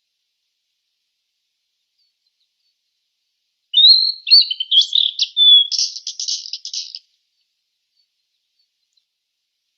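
A sulingan (tledekan) songbird singing one short phrase, starting a little under four seconds in and lasting about three seconds: clear whistled notes that slide up and down, then a quick run of scratchy, rattling notes.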